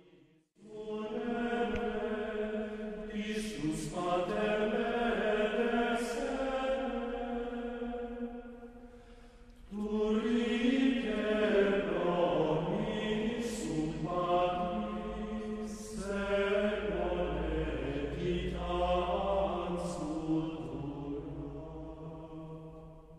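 Slow sung chant or hymn with long held notes, in three phrases that each swell and fade, the second beginning about ten seconds in and the third about sixteen seconds in.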